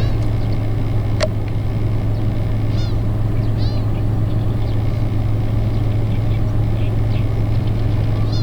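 Black-tailed gulls calling several times, each a short call that rises and falls, over a steady low rumble; a sharp click about a second in.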